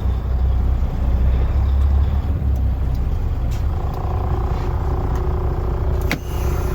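Pickup truck engine running at low speed while the truck is backed into a parking spot, a steady low rumble with a faint hum joining about four seconds in. One sharp knock near the end.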